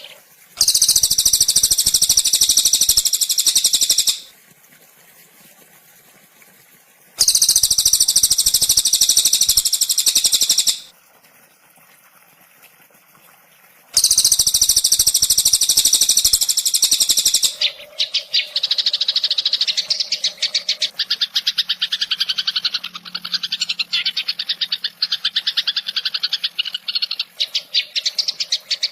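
Recorded songbird trills. There are three loud, very rapid high-pitched trills of about three and a half seconds each, with short pauses between them, followed by a long, continuous rapid chattering trill that begins about two-thirds of the way in.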